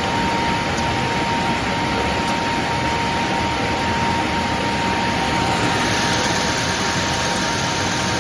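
Steady noise of factory machinery running, with a constant high whine throughout.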